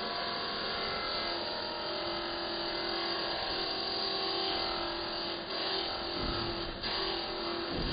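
A car running steadily, a constant hum with one held tone and a couple of dull low knocks near the end.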